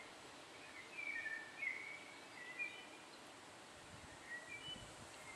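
Several short bird chirps over a steady outdoor hiss, then faint rasping scrapes near the end from a common wasp (Vespula vulgaris) queen working wood fibre at her paper nest.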